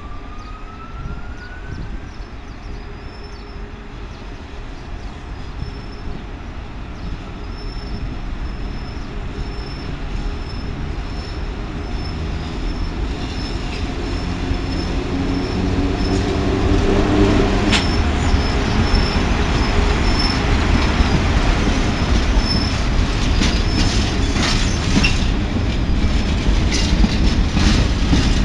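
A train approaching along the track, growing steadily louder, with its wheels clicking over the rail joints in the last ten seconds or so.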